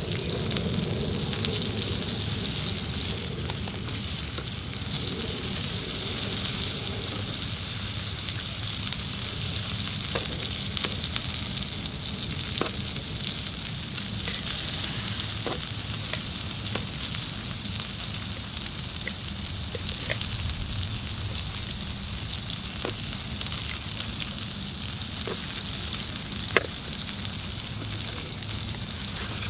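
Chicken thighs sizzling on a cast-iron Otokomae plate over a wood fire: a steady frying hiss with occasional small pops.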